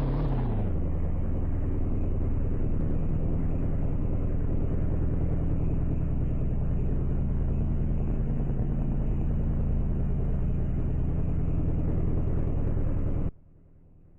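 A vehicle engine running steadily with a low drone, cutting off abruptly about 13 seconds in, leaving only a faint hum.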